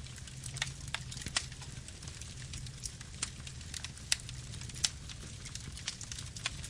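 Campfire burning: irregular sharp crackles and pops, a few of them louder, over a steady low rumble of the flames.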